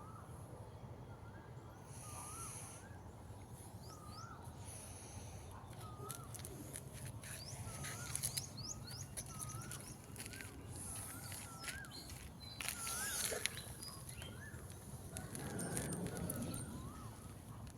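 Rural outdoor ambience: a bird repeats a short rising-and-falling chirp about once a second, over a high pulsing hiss and a faint steady low hum.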